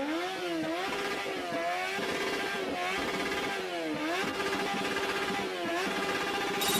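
Motocross dirt bike engine revving, its pitch rising and falling several times as the throttle is blipped and released.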